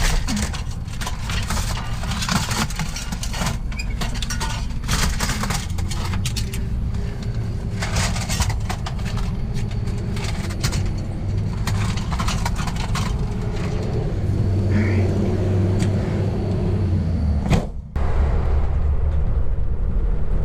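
Van running with a steady low rumble, overlaid by many short clanks and rattles. Near the end it cuts abruptly to a steady low road rumble from inside the van under way.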